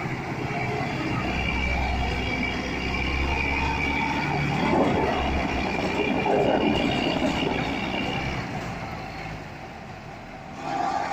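Steady rumbling vehicle noise with thin high tones above it, easing off over the last few seconds.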